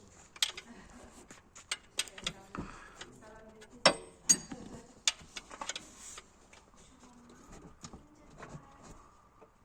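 A string of irregular sharp clicks and knocks, the loudest pair a little before and after the middle, with faint talking in between.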